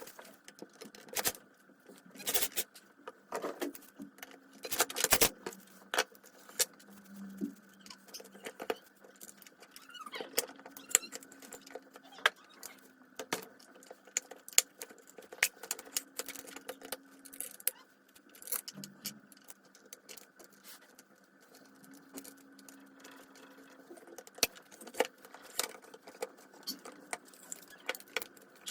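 Scattered clicks, clinks and light knocks of small metal saw parts and hand tools being handled, at irregular intervals, over a faint steady hum.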